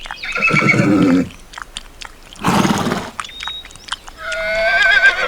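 Animal calls: a short pitched call near the start, a brief noisy burst midway, and a long, wavering high call near the end.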